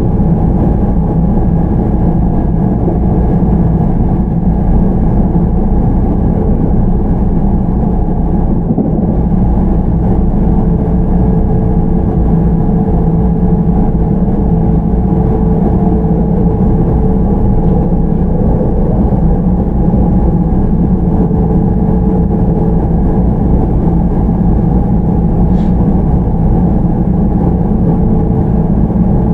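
JR Central 313 series electric train (motor car MoHa 313-9, Toshiba IGBT VVVF drive) running steadily, heard from inside the car: a constant deep rumble of wheels on rail and running gear. A faint steady tone joins in from about ten seconds in to a little past twenty seconds.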